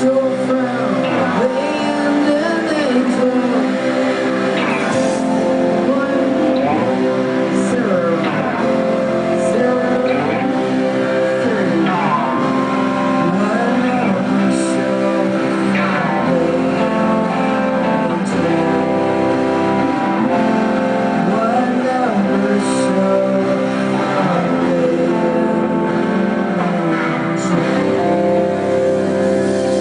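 A live band playing: guitar over held, droning tones, with sliding pitches that come back every couple of seconds.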